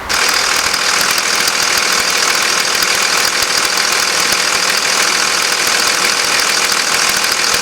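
A 5.9-litre Cummins inline-six turbo diesel in a 2001 Dodge Ram 3500 idling steadily at an even level.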